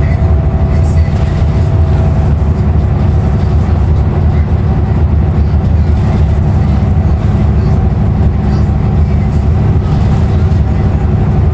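Ride noise aboard a 2016 Nova Bus LFS transit bus under way: its Cummins ISL9 diesel engine and road noise make a loud, steady low rumble, with a faint steady whine that fades out about two seconds in.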